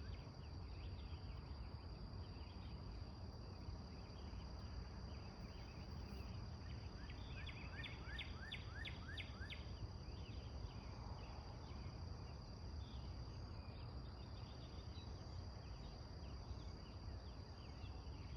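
Outdoor ambience: a steady high insect drone over a low rumble of wind or distant noise. Around the eighth second a bird sings a quick run of falling notes, with fainter chirps later on.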